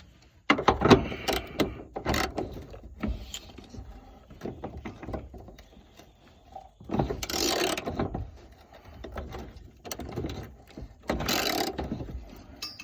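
Hand ratchet wrench clicking in bursts of about a second as a bolt is worked loose by hand, with scattered knocks of the socket and tools between strokes.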